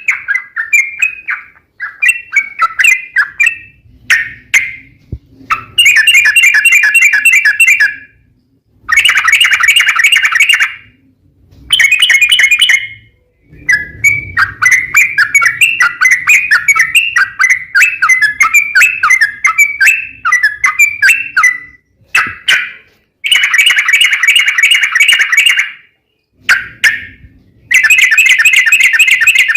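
Yellow-vented bulbul (trucukan) singing loudly in bursts of rapid, chattering notes, the long-rolled 'ropel panjang' song of a bird in full song. The phrases last one to two seconds with short gaps between them, and one unbroken run lasts about eight seconds in the middle.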